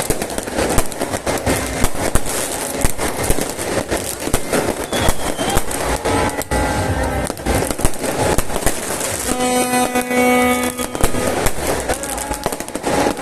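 Fireworks crackling and popping in a dense, rapid barrage of bursts. About nine seconds in, a loud horn-like tone sounds steadily for under two seconds over the bangs.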